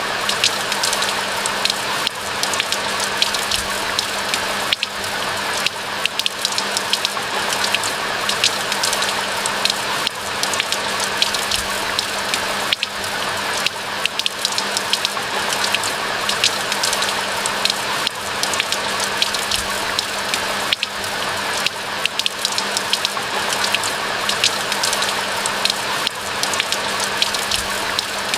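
Steady rain, a dense, even patter of countless drops.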